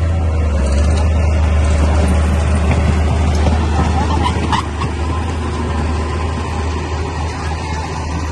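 Crawler bulldozer's diesel engine running under load with a steady deep drone. About four and a half seconds in, a brief rising squeal sounds, and the engine eases a little after it.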